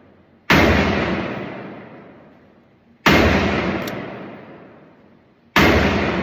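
Three gunshots fired at a steady pace, about two and a half seconds apart, each followed by a long echo that dies away slowly.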